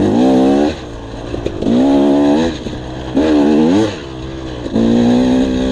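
Dirt bike engine revving in four bursts of about a second each as the throttle is opened and eased off, the pitch rising within each burst, with quieter running in between.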